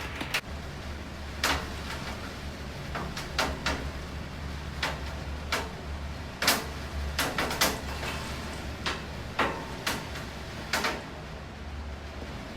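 Rain during a thunderstorm: about a dozen sharp, irregular taps of drops striking a hard surface close by, over a steady low rumble and a faint hiss of rain.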